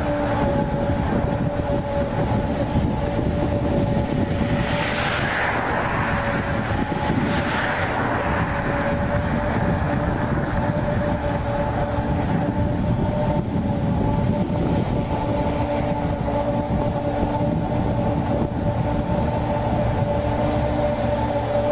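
Tracked dumper running: steady engine and machinery noise with a constant whine. There are two brief hissing surges around five and seven seconds in.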